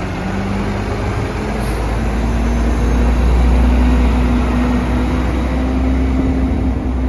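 Autocar Xpeditor garbage truck's engine running loud with a deep rumble, its pitch climbing slowly over the first few seconds as it speeds up, then holding steady.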